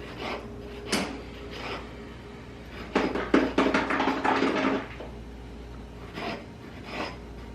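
Kitchen counter handling: a sharp knock about a second in, then about two seconds of clattering and rustling as things are moved about, with a few light bumps around it.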